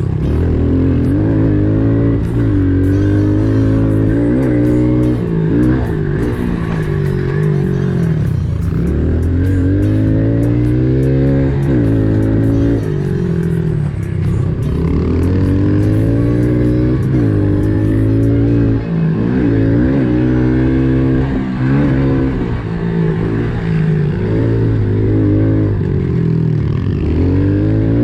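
Small pit bike engines revving up and down again and again as the bikes ride a dirt track, with background music underneath.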